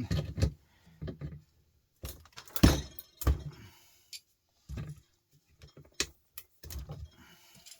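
Bench vise being tightened on a plastic three-pin socket to crush it open, with a string of sharp clicks, knocks and cracks at irregular intervals; the loudest comes about two and a half seconds in.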